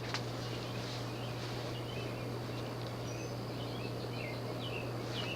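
Lasko Contemporary 36-inch plastic-bladed ceiling fan running on high: a steady low motor hum under even air noise, with a few faint, irregular chirps.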